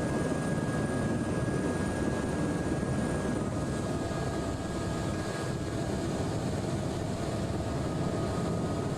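Helicopter rotor and turbine noise heard from on board, a steady loud beat with no change in pitch.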